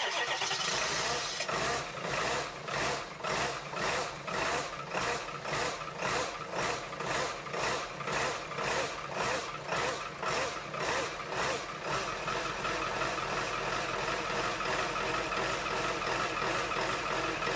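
Ford F-250 diesel engine just after a cold start, running unevenly with a regular pulsing lope about twice a second, then steadier from about twelve seconds in. The unevenness is a miss in the engine.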